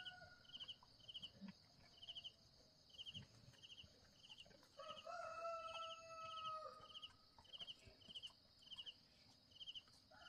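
A rooster crows once, a single call of about two seconds starting about five seconds in. Under it run a steady high insect drone and a short high chirp repeating about twice a second.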